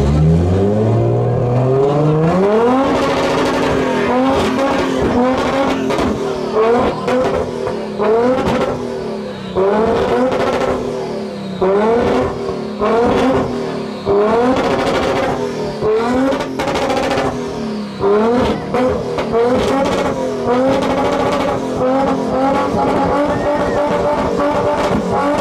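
Car engine revved hard over and over, its pitch climbing and dropping back every second or two.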